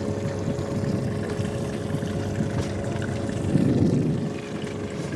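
Boat motor running steadily under way, a constant low rumble with a steady whine over it, and a brief louder swell about three and a half seconds in.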